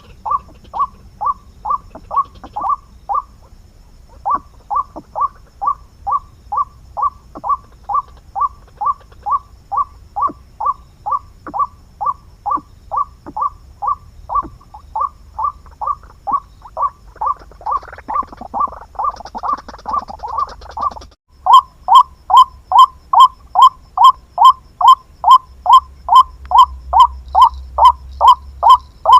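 White-breasted waterhen (ruak-ruak) calling, a monotonous note repeated about twice a second without let-up. About two thirds of the way in there is a brief break, after which the calls are louder.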